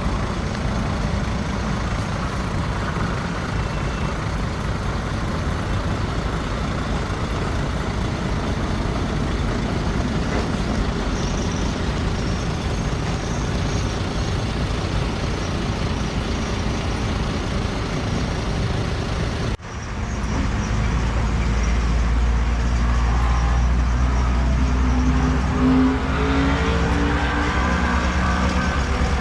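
Diesel engines of heavy earthmoving machinery (bulldozer and dump trucks) running steadily. After an abrupt cut about two-thirds of the way in, a louder, deeper engine note follows, its pitch shifting as the machine works.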